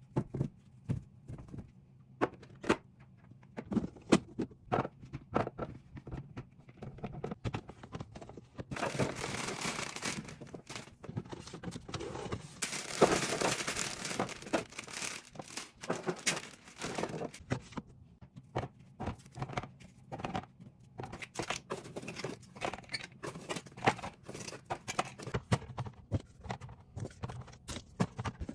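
Fridge-organizing handling sounds: many light clicks and knocks of containers and food items being picked up and set down, with crinkling of plastic packaging. Two longer stretches of steady hissing noise come about nine and thirteen seconds in, over a faint low hum.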